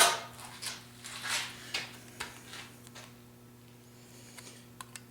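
A wrench and small carburetor parts being handled and worked on a bench: a quick run of short scrapes and clicks over the first three seconds, then two faint ticks near the end, over a steady low electrical hum.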